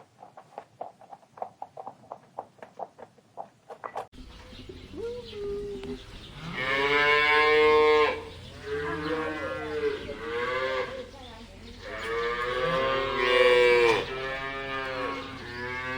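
A fast run of short clicks or taps, then, about four seconds in, cattle mooing: several long, drawn-out moos, two of them much louder than the rest.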